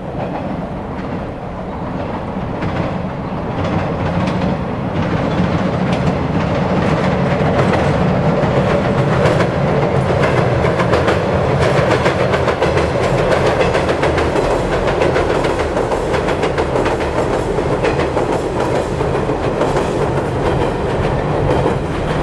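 JR 115 series electric multiple unit, a four-car set, running over a steel girder railway bridge: wheels clacking over rail joints with a steady rumble. The sound grows louder over the first several seconds as the train nears, then stays loud as it passes.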